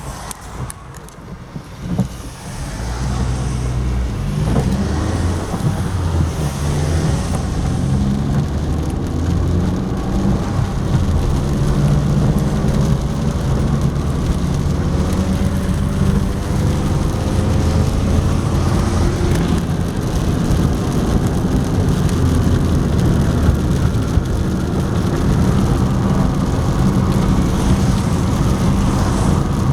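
Honda Jazz being driven, heard from inside the cabin: a steady low engine and road rumble that gets louder about two seconds in, with a faint engine whine rising in pitch now and then as the car gathers speed.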